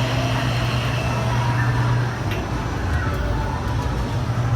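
Steady low hum and rumble of a vehicle in motion.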